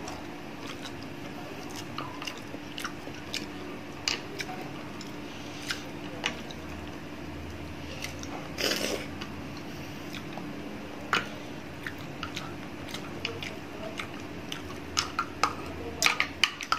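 Close-up eating sounds: chewing with wet mouth smacks and scattered small clicks as fingers pick the flesh off a cooked tilapia. A faint steady hum runs underneath.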